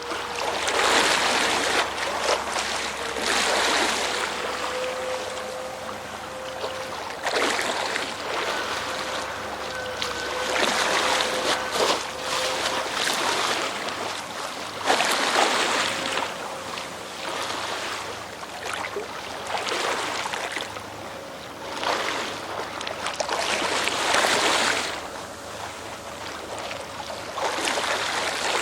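Sea water rushing and splashing in surges every three to four seconds, over a steady hum from the salvage work boat's machinery.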